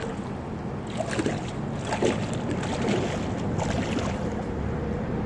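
Waterfall water running steadily into a pond, with a few small splashes.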